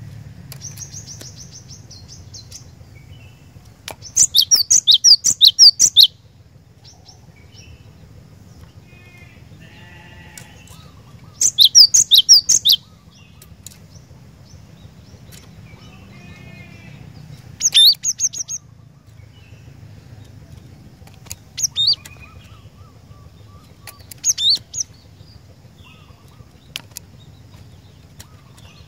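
Cinereous tit (glatik batu) singing in about five bursts of rapid, sharp, high repeated notes, the first two lasting about two seconds each and the later ones shorter, with pauses between.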